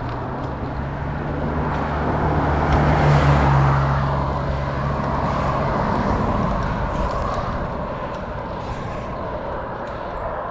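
A motor vehicle passing on the road: its low engine hum swells to a peak about three seconds in and fades out by about six seconds, over steady traffic noise.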